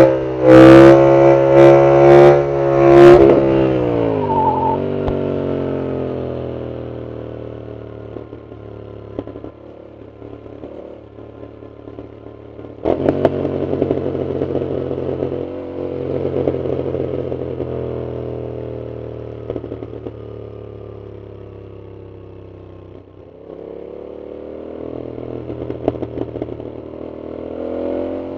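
Yamaha MT-07's parallel-twin engine through a loud full aftermarket exhaust, revving hard at first, then the throttle closes and the engine note falls away as the bike slows. It runs quietly at low revs until the throttle is picked up sharply about halfway through. The note then slowly sinks and climbs again near the end as the bike accelerates.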